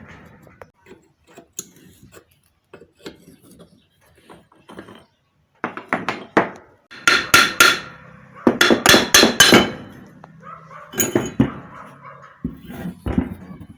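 Hammer blows on the metal parts of a centrifugal water pump being taken apart: a few light taps, then a quick run of sharp strikes in the middle, and a few more strikes near the end.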